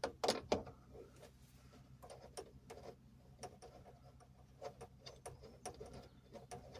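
Scattered light clicks and knocks of metal fuel pipework and fittings being handled, with two sharper knocks near the start.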